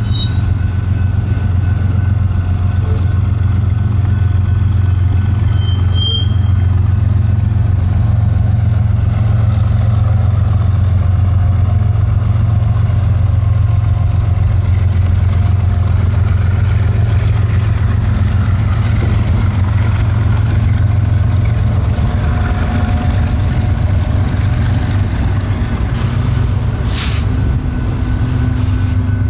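BNSF freight train rolling slowly through a road crossing: a steady low diesel engine drone under the noise of the passing hopper cars, with a set of BNSF diesel locomotives going by around the middle. A brief sharp click near the end.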